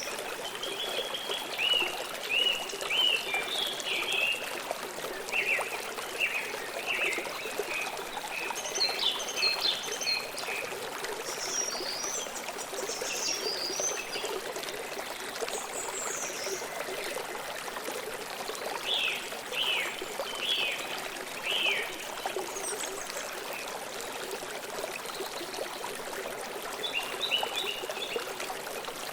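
A stream trickling and flowing steadily, with small birds chirping over it in scattered runs of short, quick calls.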